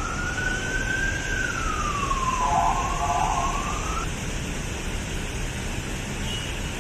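Electric motor whine from a JR 205 series KRL commuter electric train: a pitched tone that rises, falls, steps briefly and rises again over the steady rumble of the moving train.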